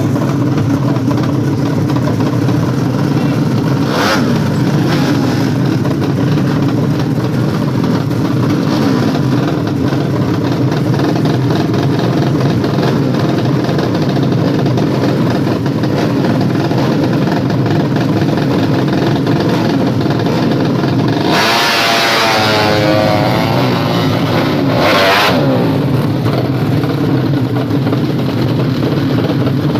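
A 200cc drag-racing underbone motorcycle engine running steadily, with short throttle blips and, about two-thirds through, a louder high rev whose pitch sweeps and falls away.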